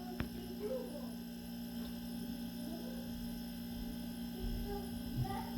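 A steady low electrical hum.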